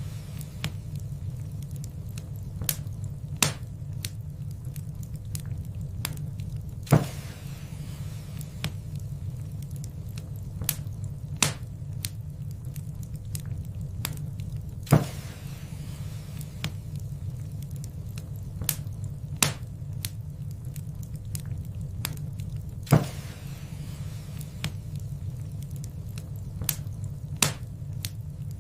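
Wood fire in a fireplace crackling over a steady low rumble. Sharp, loud pops come about every four seconds, with fainter ticks in between.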